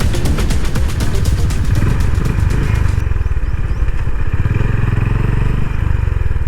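A moving motor vehicle's low, steady engine and road rumble. A rhythmic music track with a steady beat plays over it and stops about three seconds in.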